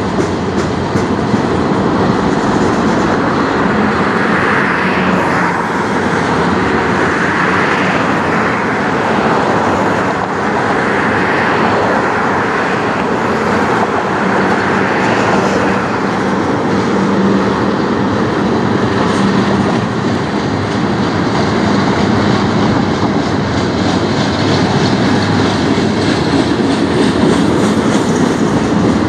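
CN manifest freight train's tank cars, autoracks and boxcars rolling past: a loud, steady rumble of steel wheels on the rails.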